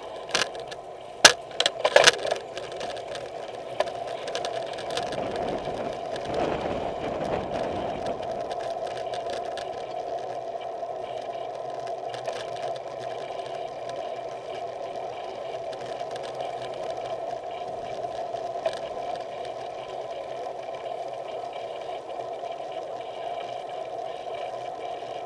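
Bicycle rolling downhill: a steady mechanical buzz, with a few sharp clicks in the first two seconds and a swell of rushing noise about six to eight seconds in.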